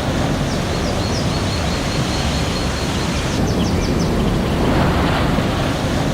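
Steady rushing rainforest ambience of water and rain on leaves, with a bird's short runs of quick high chirps twice, about half a second in and again about three and a half seconds in.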